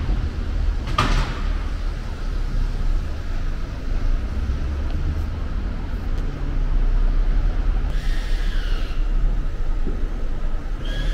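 Car engines running in an underground parking garage, heard as a steady low rumble. A sharp click comes about a second in, and a brief high squeal near the end.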